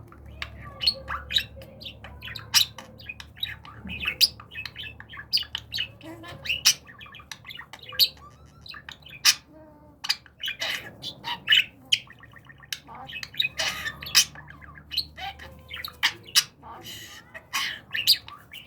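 Pet budgerigar chattering: a busy stream of short sharp chirps and squawks with warbling in between.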